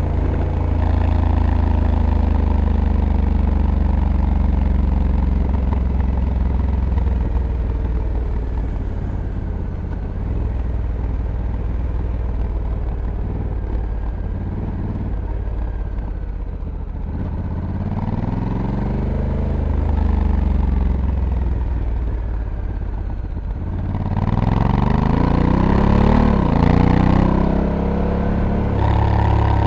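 Honda Africa Twin's 1084 cc parallel-twin engine running under way. It holds a fairly steady note for the first half, then its revs rise and fall twice, about eighteen seconds in and again near the end.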